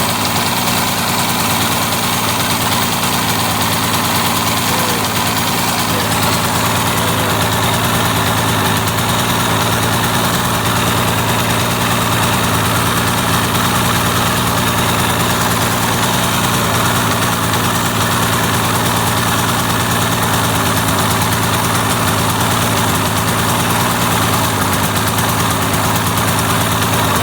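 2002 Yamaha SX Viper snowmobile's three-cylinder two-stroke engine idling steadily.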